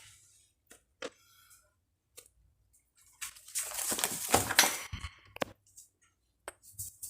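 Rustling and light clatter of household things being handled, with a few sharp clicks: a burst of rustling about halfway through, a single click a little later and several clicks near the end.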